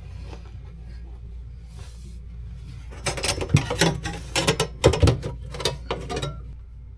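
Ratchet wrench clicking in quick runs as the bolts of a newly fitted bracket are tightened, with metal parts rattling; the clicking is loudest from about three seconds in and stops about a second before the end, over a steady low hum.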